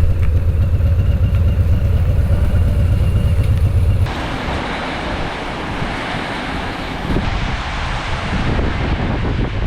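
Harley-Davidson motorcycle's V-twin engine running with a low, steady rumble. About four seconds in, the engine sound drops away abruptly, leaving a steady rushing hiss.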